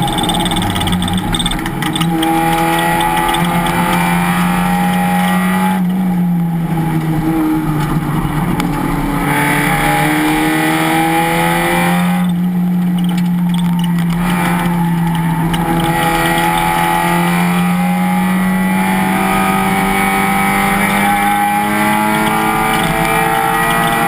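Race car engine running hard on track, its pitch climbing and falling repeatedly as it accelerates, shifts and slows for corners.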